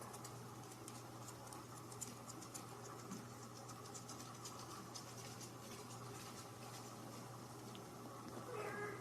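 Faint, rapid light scratching and clicking, like small claws or nibbling on a surface, over a steady low hum. A short, high squeak comes near the end.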